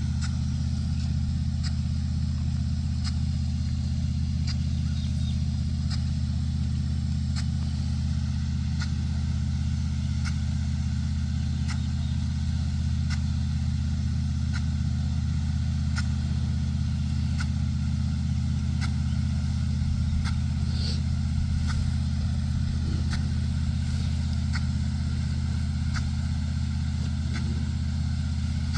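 A large engine running steadily at constant speed, with a faint sharp tick about every second and a half.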